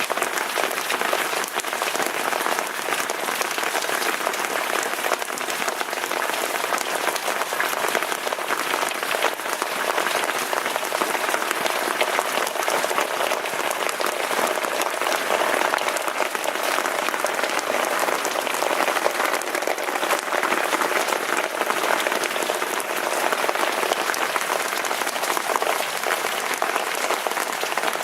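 Steady rain falling, a dense, even hiss of many drops that holds without a break.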